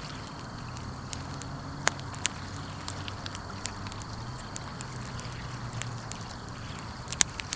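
Wood fire crackling with scattered sharp pops, the loudest about two seconds in and a cluster near the end, over a low steady hum.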